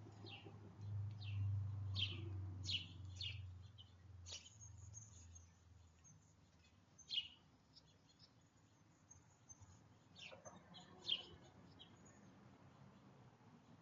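Small songbirds at a backyard feeder giving short, sharp chirps at irregular intervals, several in quick succession early on and a few more near the end. A low hum runs under the chirps for the first few seconds.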